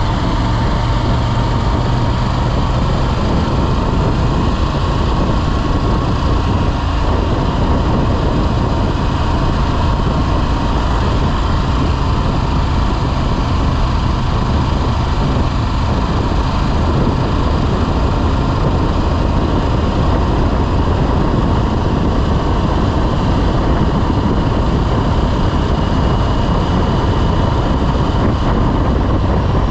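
Motorcycle under way, its engine running steadily with no change in level.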